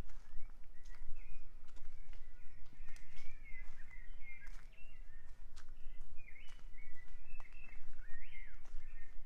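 Several birds singing, a steady run of short whistled chirps and warbling notes, over a low rumble, with sharp clicks scattered through.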